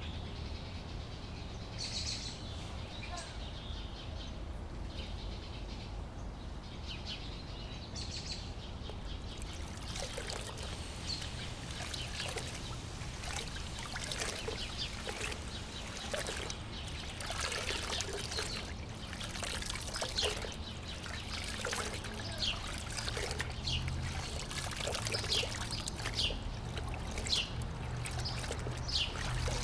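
Water splashing and trickling in short irregular bursts, about one or two a second, starting about a third of the way in; before that, birds chirp over a steady low background.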